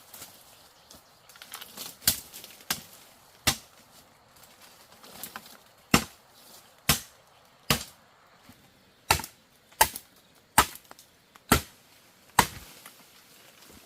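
A blade chopping bamboo: about a dozen sharp strokes, roughly one a second, the harder ones in the second half.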